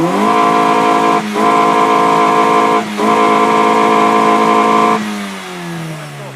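Car engine revved hard through its exhaust and held at high revs for about five seconds, cutting out briefly twice, then the revs drop away slowly.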